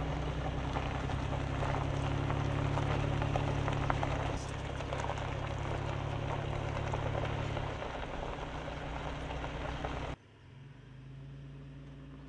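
Vehicle driving, heard from inside: a steady low engine hum under a loud rushing road and tyre noise. The noise cuts off suddenly about ten seconds in, leaving a quieter low hum.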